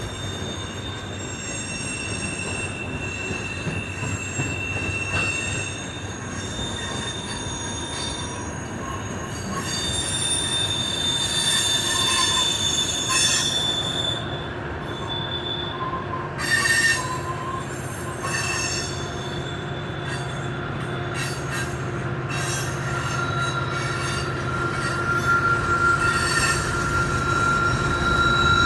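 Steel wheels of a long freight train of tank cars squealing against the rails as the cars roll past: several high-pitched steady squeals that come and go and change pitch, over the low rumble of the train.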